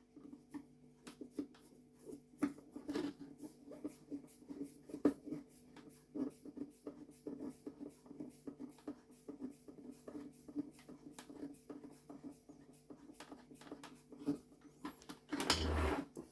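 Irregular small clicks and taps from vacuum cleaner casing parts and screws being handled and fitted back together, over a faint steady hum. A louder sound comes near the end.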